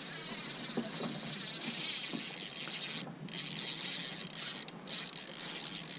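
Steady high hissing noise that cuts out abruptly a couple of times, with a few faint low knocks.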